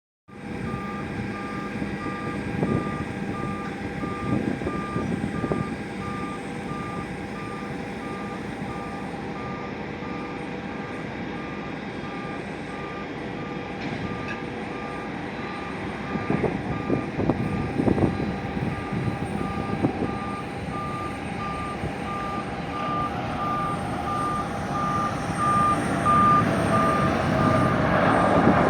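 A vehicle's reversing alarm beeping steadily, one high tone repeated at an even pace, over a noisy background rumble. Near the end the rumble grows louder.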